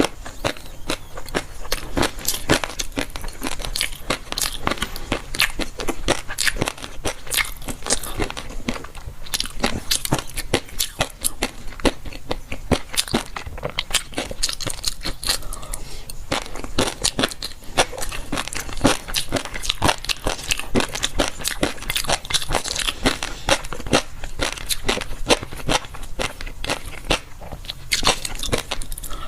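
A person chewing crunchy food close to the microphone: dense, irregular crisp crunches, several a second.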